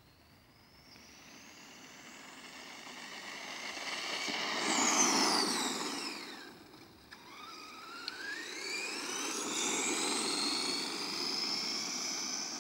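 Electric motor and gear whine of a Himoto 1:10 4x4 RC monster truck running on an 11.1 V LiPo: the whine climbs in pitch and loudness as it speeds up, sweeps down as it passes by about five seconds in, then climbs again on a second run.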